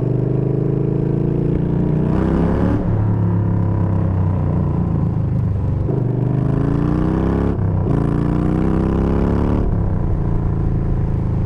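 Yamaha Bolt's V-twin running through a Bassani radial sweeper exhaust with the baffles removed, accelerating: the engine note rises in pitch several times and drops back at each gear change.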